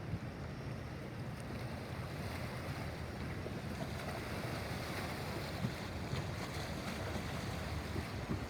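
Inland cargo ship's diesel engine running as the ship passes, a steady low drone, with wind buffeting the microphone.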